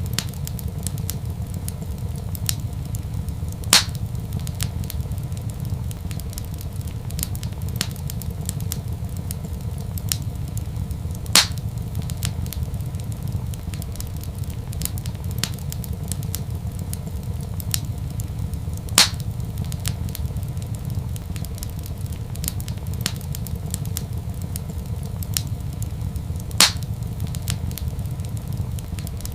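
Wood fire crackling in a fireplace: a steady low rumble under frequent small crackles, with four louder pops at even intervals of about seven and a half seconds.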